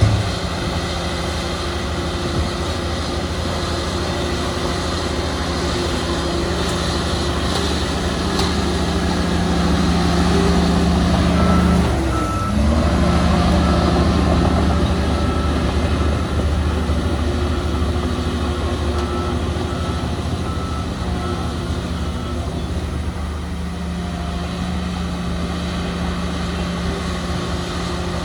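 Heavy diesel construction machinery running steadily, its engine note dipping and picking back up about halfway through. A reversing alarm beeps repeatedly through the middle stretch.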